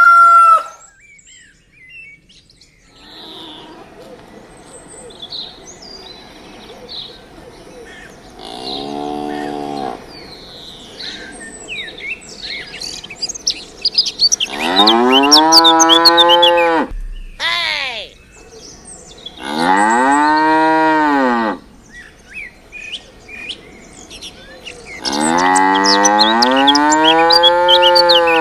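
Cattle mooing about five times, with long drawn-out calls that rise and fall in pitch. The first is quieter and one is short. Birds chirp throughout.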